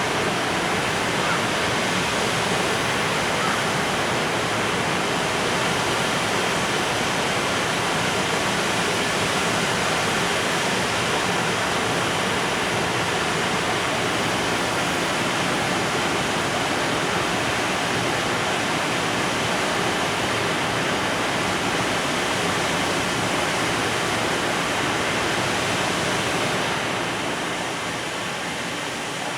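Container freight train rolling past, a steady noise of wheels on rails that eases slightly near the end.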